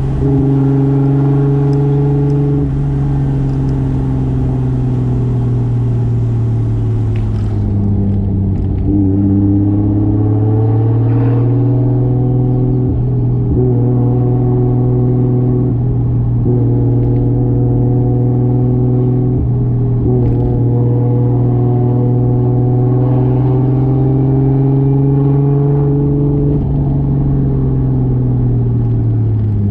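Toyota Soarer's single-turbo 2JZ straight-six running under way at a fairly steady pitch. The note dips and pulls back up about eight to eleven seconds in, then falls off near the end as the car slows.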